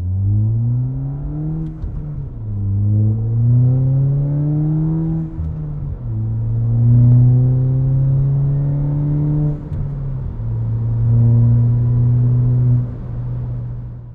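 Ford Fiesta ST's turbocharged 1.6-litre EcoBoost four-cylinder heard from inside the cabin, accelerating hard from a standstill through the gears. The engine pitch climbs, drops at each upshift about two, five and a half and ten seconds in, then holds or climbs again before easing off near the end.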